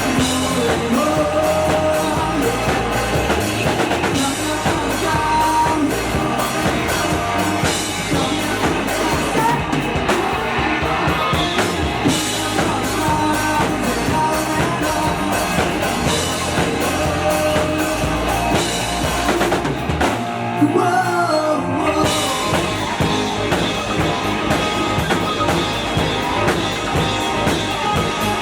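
Rock band playing live: sung vocals over drum kit, bass and electric guitar. About twenty seconds in, the drums and bass drop out for a moment, then the full band comes back in.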